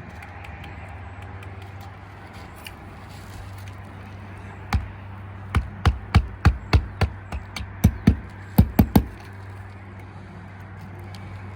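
Hammer nailing a replacement asphalt roof shingle: about a dozen sharp strikes in quick runs, starting about five seconds in and stopping about four seconds later.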